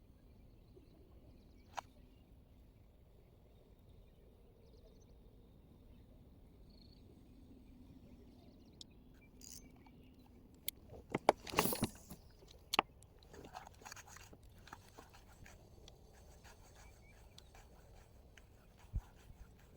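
Faint steady background with a few sharp clicks, and a short cluster of louder knocks and rustling about eleven to thirteen seconds in, followed by scattered lighter clicks.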